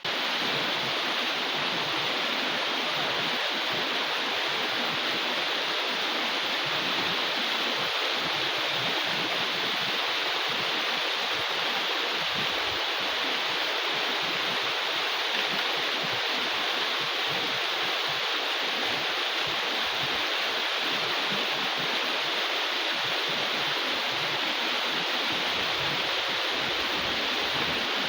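Heavy downpour: a steady, dense hiss of rain.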